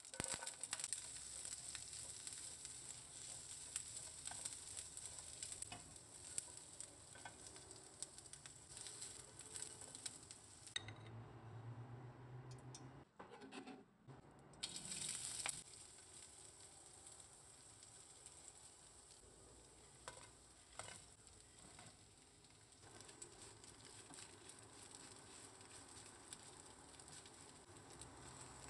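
Vegetables and then ginger sizzling in hot oil in a non-stick frying pan, with scattered small clicks of stirring. The sizzle breaks off briefly about eleven seconds in, flares up again, then carries on more quietly.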